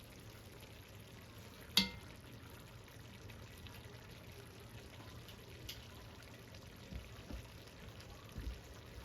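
Faint sizzling and simmering in a pot as seared beef short rib pieces are set into warming red wine with onion and carrot. A sharp metallic clink comes about two seconds in, and a few soft thumps near the end.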